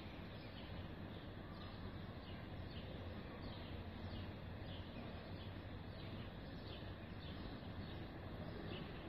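Small birds chirping faintly, short high chirps every half second or so, over steady outdoor background noise with a low hum.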